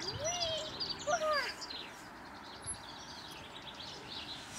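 Small birds chirping and twittering over a steady outdoor hiss, with two short rising-and-falling pitched calls in the first second and a half.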